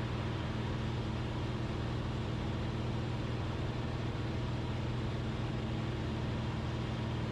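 Cessna 172RG's four-cylinder piston engine and propeller running steadily in flight, heard inside the cockpit as a continuous even drone with a low hum.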